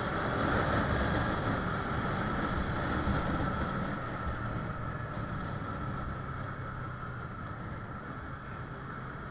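Yamaha YZF-R25 motorcycle's parallel-twin engine running at low road speed in city traffic, heard from the bike with wind rushing over the action-camera microphone. It grows a little quieter about four seconds in.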